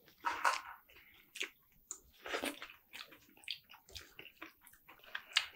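Close-up eating sounds: a string of short wet smacks and clicks of someone chewing a mouthful of sliced smoked turkey.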